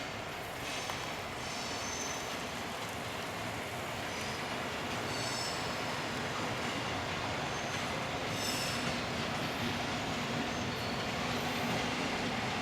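Container freight train rolling by, its wheels rumbling on the rails and growing slowly louder, with short high-pitched wheel squeals coming and going.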